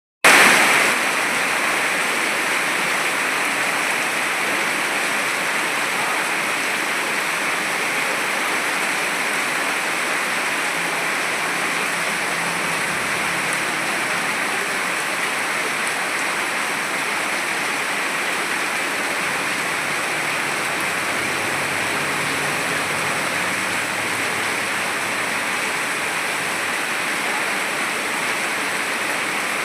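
Torrential rain pouring down: a dense, steady hiss with no let-up.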